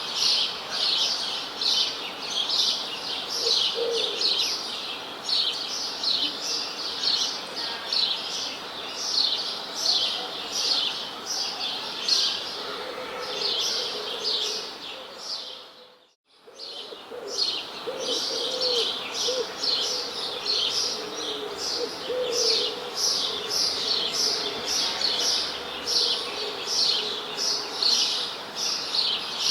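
Many small birds chirping in a dense, continuous chorus of quick high chirps, with a few lower calls mixed in. The chorus briefly fades out and back in about halfway through.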